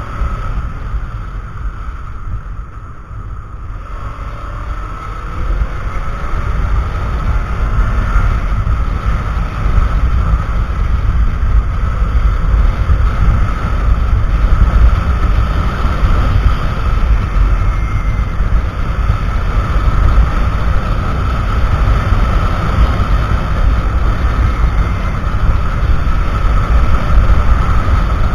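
Kawasaki Ninja 300 ridden on the road, heard through a cheap action camera's microphone: heavy wind rumble buffets the mic, with the bike's engine running steadily underneath. The noise grows louder about four seconds in and again about ten seconds in.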